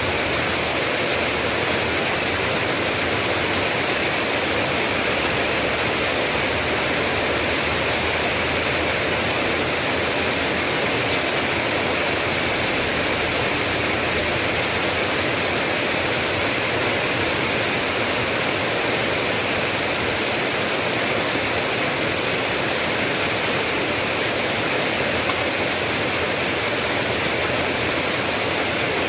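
Steady rain falling as a constant, even hiss with no changes.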